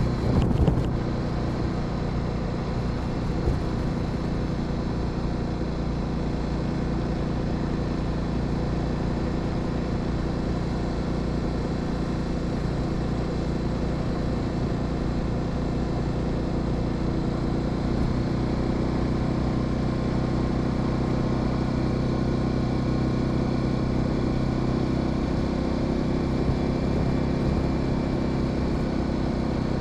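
Honda Sahara 300 motorcycle engine running steadily under way, with a brief clatter about half a second in.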